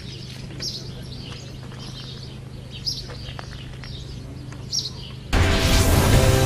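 Small birds chirping in short high calls over a steady low hum. About five seconds in, a loud news-agency logo jingle cuts in with a rising whoosh and held synth chords.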